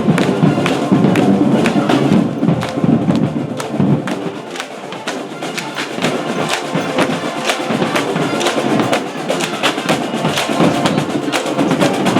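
High school marching band playing as it marches, brass over a drumline's steady run of drum strikes.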